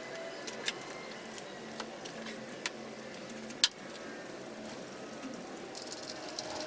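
Scattered small metallic clicks and taps of hand tools and engine parts being handled under the hood, with one sharper click about three and a half seconds in.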